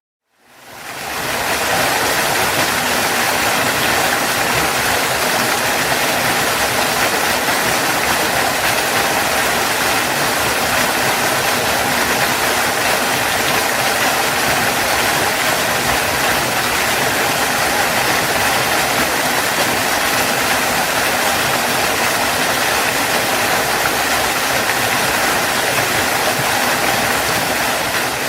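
Waterfall rushing, a steady, even roar of falling water that fades in over the first second or two and fades out at the end.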